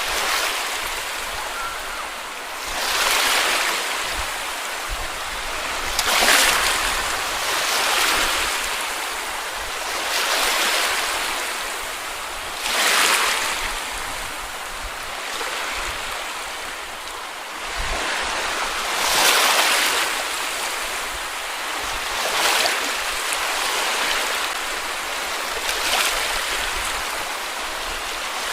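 Small sea waves breaking and washing up a beach, a swell of hissing surf every two to four seconds.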